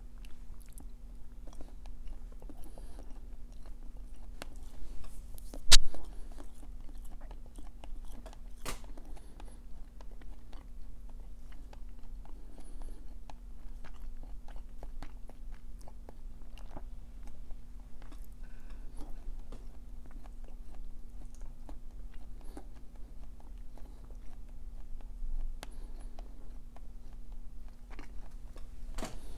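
A person chewing food, a steady run of small wet mouth clicks and soft crunches. One sharp click stands out about six seconds in, and a smaller one near nine seconds.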